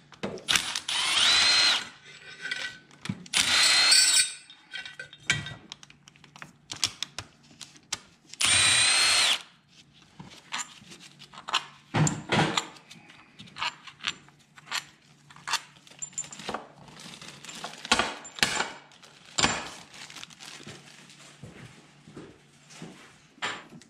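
Cordless drill spinning out the cylinder-head bolts of a Polaris 600 two-stroke snowmobile engine in three bursts of about a second each, its pitch climbing as it speeds up. After about ten seconds come scattered clinks and clanks of loosened bolts and tools being handled.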